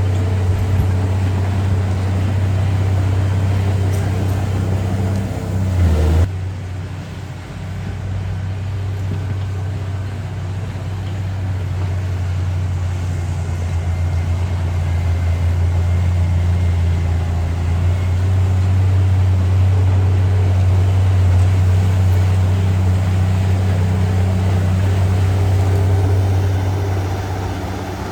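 Heavy diesel engine of earthmoving machinery running with a steady low drone. It swells briefly louder about six seconds in, then the sound changes abruptly.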